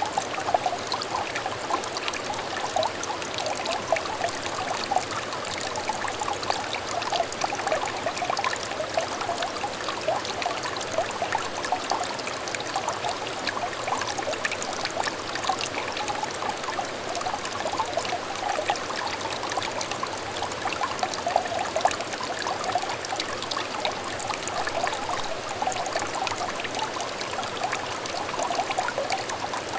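Clear stream trickling and babbling steadily, a dense, even patter of small gurgles that never lets up.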